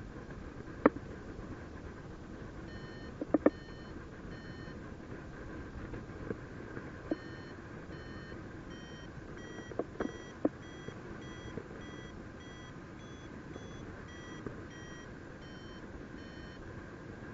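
Paragliding variometer beeping in a steady run of short beeps, about two a second, starting a few seconds in, pausing briefly, then resuming with the pitch creeping up and falling back before it stops near the end: the climb tone of the glider gaining height in lift. Beneath it a steady rush of air and a few sharp clicks.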